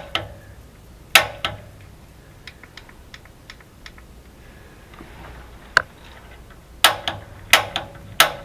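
Piezo igniter on a gas water heater clicking as it is pressed again and again to spark the pilot: about seven sharp snapping clicks at irregular gaps, with a long pause in the middle and closer together near the end.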